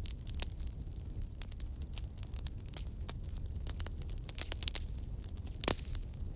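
Wood fire crackling, with irregular sharp pops and snaps over a low steady rumble; one louder pop comes near the end.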